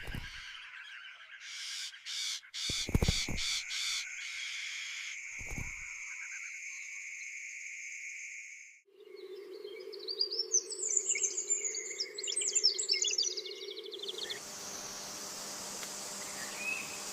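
Small birds chirping, in several abruptly cut segments. A dense flurry of quick high chirps over a low steady hum comes in the second half, and the sound ends in a soft even hiss.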